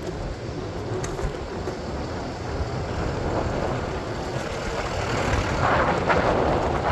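City street traffic noise: a steady rumble of passing vehicles that grows louder near the end.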